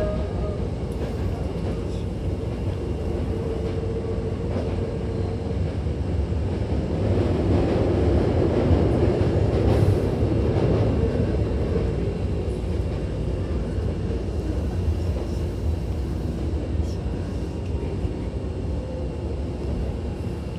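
Hankyu electric commuter train running, heard from inside the car: a steady rumble of wheels on rail and running noise. It grows louder from about seven to eleven seconds in, then eases off toward the end.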